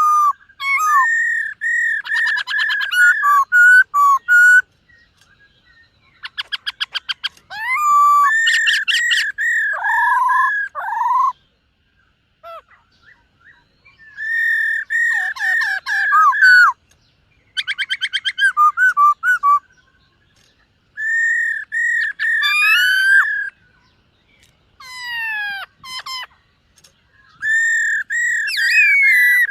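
Black-throated laughingthrush singing: loud phrases of rich whistled notes mixed with rapid clicking trills, each phrase lasting a few seconds with short pauses between.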